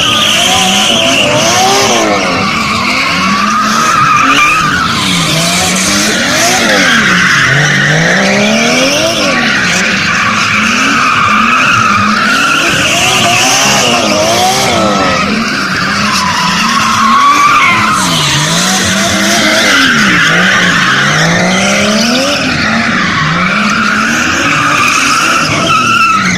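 Drift car engine revving up and down over and over, every second or two, with continuous tyre squeal from the tyres sliding.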